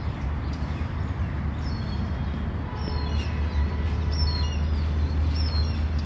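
Small birds chirping: short, high chirps in quick groups of two or three, repeating several times over a steady low rumble.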